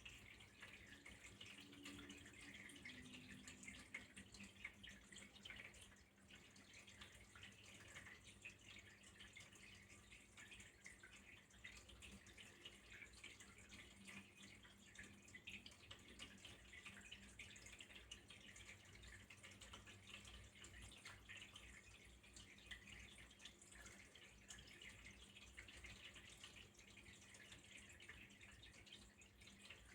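Faint, steady trickle of flowing water with fine dripping patter, over a soft steady low hum.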